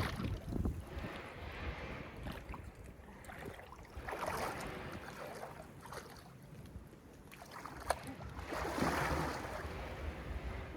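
Water splashing and sloshing around a swimmer, rising in three swells a few seconds apart.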